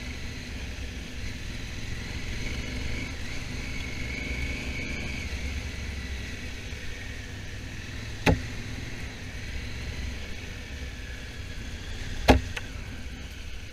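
Honda Africa Twin's twin-cylinder engine running steadily under way, heard as a low rumble with wind and road noise. Two sharp knocks break through, about eight and twelve seconds in.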